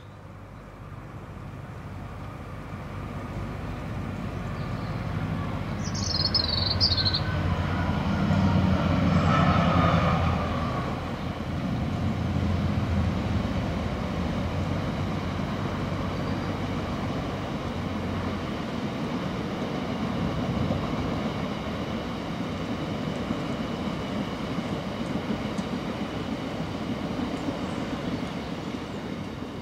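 A train passing on the line. Its rumble builds over several seconds, is loudest about eight to ten seconds in, then carries on steadily with a faint high hum. A brief high falling squeal sounds about six seconds in.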